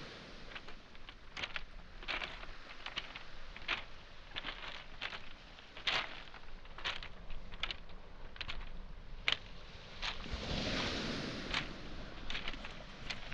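Footsteps crunching and clacking over beach pebbles and small boulders, with a background wash of surf. A wave breaks and washes up the shore about ten seconds in.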